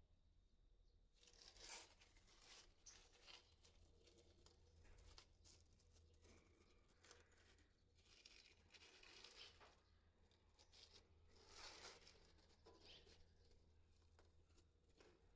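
Faint masking tape being pulled off the roll and torn, with paper rustling, in a series of short rips and crinkles; the loudest comes about two seconds in and another near the end.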